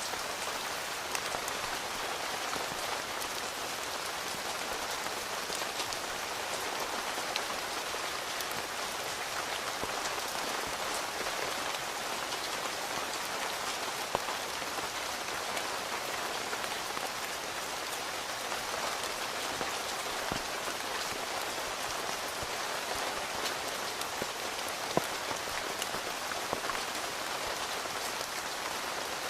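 Steady rain falling on a tent, a constant patter with a few louder single drops striking now and then.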